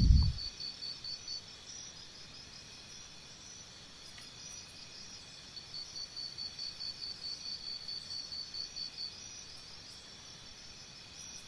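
Crickets chirping: a faint, high, evenly pulsed trill that pauses about a second and a half in and resumes about four seconds in.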